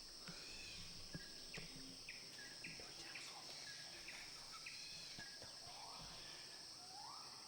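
Faint forest and grassland ambience: a steady high-pitched insect drone, with a bird repeating short sharp notes about twice a second and a rising call later on.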